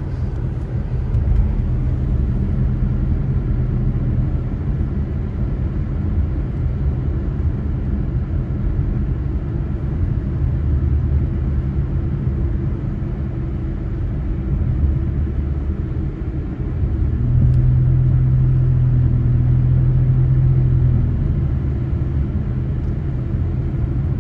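Car driving along a road: a steady low rumble of engine and tyres. About seventeen seconds in a louder steady hum comes in for a few seconds, then eases off.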